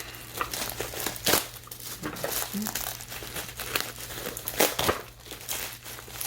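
Packaging crinkling and tearing as a mail package is unwrapped by hand, in irregular rustles with sharper crackles about a second in and again near the end.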